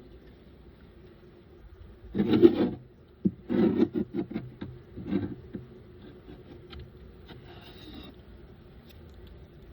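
Wooden beehive frames and a hive tool being worked in the hive box: a scrape about two seconds in, then a run of short knocks and scrapes over the next few seconds, with quieter ticks after.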